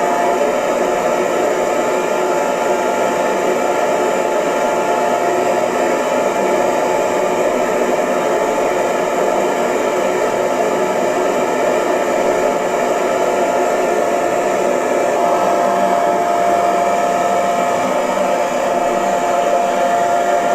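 Electric hair dryer running steadily: an even blowing noise with a faint motor whine that drops away about a second in and comes back near the end.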